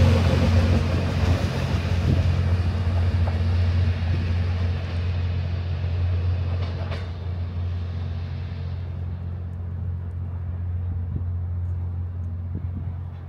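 JR West 87 series Twilight Express Mizukaze, a diesel-electric hybrid train, pulling away. Its engines give a steady low drone over the rush of its wheels on the rails, and both fade as the train draws off into the distance.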